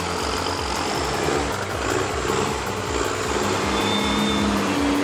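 Heavy truck engine running under load with a steady low throb. A steadier hum joins in about four seconds in.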